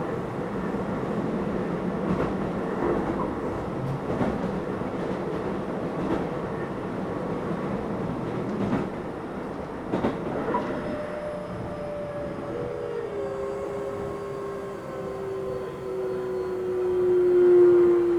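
Keio 7000 series electric commuter train running, with steady rolling noise and a few sharp clicks of wheels over rail joints. From about ten seconds in, a motor whine falls steadily in pitch as the train slows, loudest near the end.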